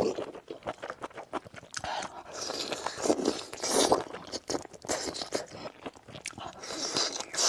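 Close-miked eating: crunchy bites and chewing, with many small mouth clicks and repeated crunching bursts.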